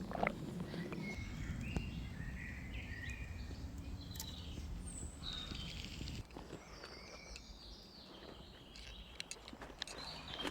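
Forest songbirds chirping and calling in short, sliding notes, over a low rumble that drops away about six seconds in.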